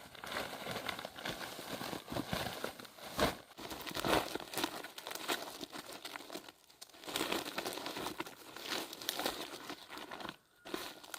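Irregular crinkling and rustling, with many short crackles, as of material being crumpled and handled.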